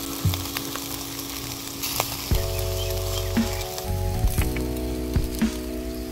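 Food frying in hot fat, a steady sizzle with scattered small pops, under background music.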